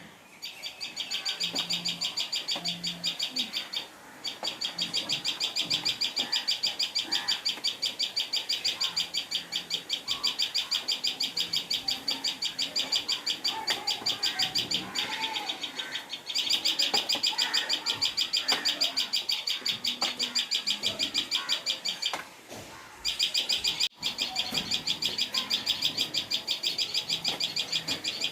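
Common tailorbird (tuntuni) calling: a loud, high-pitched note repeated rapidly and steadily, pausing briefly twice.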